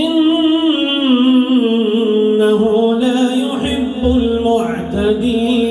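A male Quran reciter chanting in a slow, melodic tajwid style, drawing vowels out into long held notes that waver and slide downward, with short breaths or breaks between phrases.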